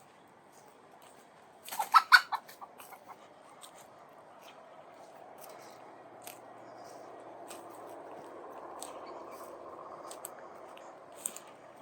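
Footsteps crunching on beach sand, a quick cluster of steps about two seconds in and scattered single steps after, over a soft wash of surf that swells in the middle and eases near the end.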